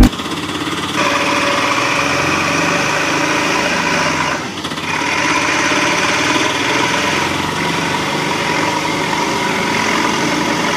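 Small toy vehicle's motor running steadily with a whirring whine, dipping briefly about four and a half seconds in.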